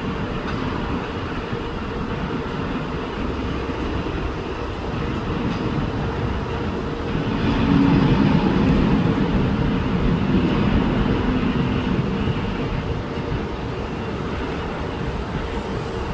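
Steady distant engine drone with a faint constant hum. It swells louder about seven seconds in and eases off again a few seconds later, like a motor passing by.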